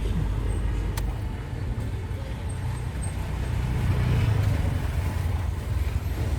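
Car driving along a dusty road, its engine and tyre rumble steady, with a single sharp click about a second in.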